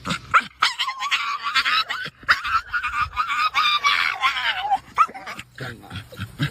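A dog whining: a long, wavering, high-pitched whine lasting several seconds, followed near the end by quick, short, rhythmic breaths of panting.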